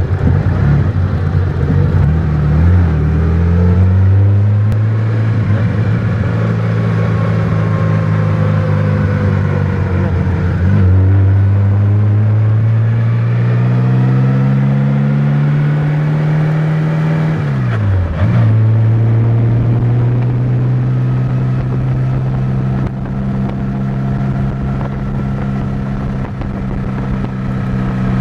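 Bugatti Type 35C's supercharged two-litre straight-eight heard from the open cockpit, pulling up through the gears: the engine note climbs, drops back at gear changes about 3, 11 and 18 seconds in, then holds steady at a cruise, over wind and road noise.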